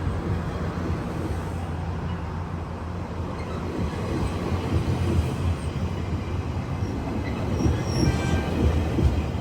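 GO Transit diesel commuter train, led by MP40PH-3C locomotive 619, with its engine running as a steady low drone. Faint high-pitched wheel squeal comes in near the end.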